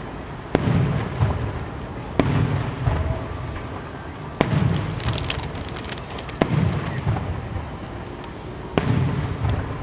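Aerial fireworks shells bursting, five sharp bangs about two seconds apart, each followed by a low rumbling echo, with a spell of crackling about halfway through.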